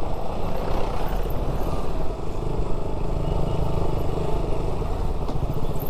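Motorcycle running steadily while being ridden, its engine mixed with a rush of wind on the microphone.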